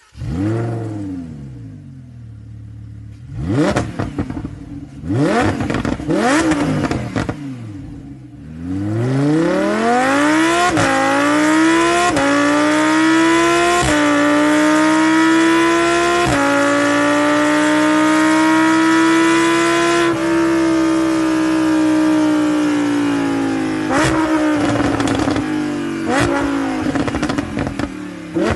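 Lamborghini Huracán V10 with an Akrapovic exhaust. The engine flares and settles to idle, is revved sharply twice, then accelerates hard through about four upshifts, each one a sudden drop in pitch. It holds a steady high note, then eases off, with a few short throttle blips near the end.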